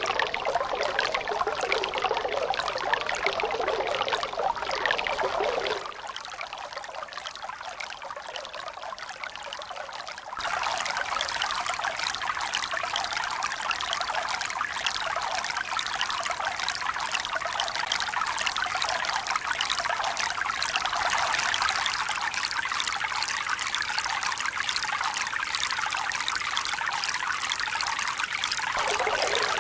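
Running water, trickling and pouring in a steady splashing rush. About six seconds in it abruptly turns quieter and thinner, about four seconds later it abruptly comes back louder and fuller, and it shifts again just before the end.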